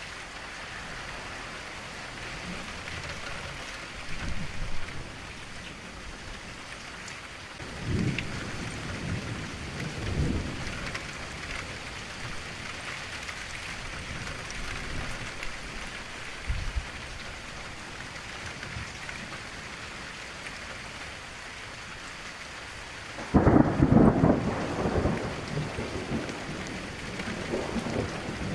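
Steady rain falling against a window, with several low rolls of thunder; the loudest starts about three-quarters of the way through and rumbles away over a few seconds.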